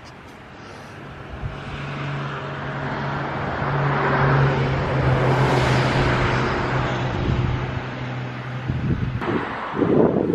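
A motor vehicle on the road: a steady engine hum with tyre and wind noise that swells to a peak about halfway through and then fades, ending abruptly near the end, followed by a gust of wind noise on the microphone.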